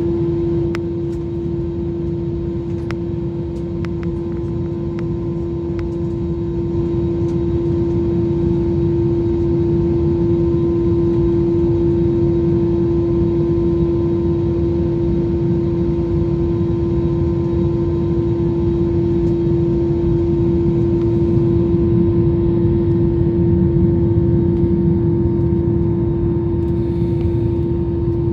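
Jet airliner engines heard from inside the passenger cabin: a steady low rumble with a strong humming tone that grows gradually louder, with a few faint clicks in the first several seconds.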